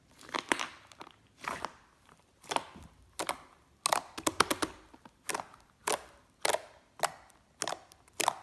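Slime being pressed and squished by hand, giving a run of sticky clicks and small popping crackles about one and a half times a second.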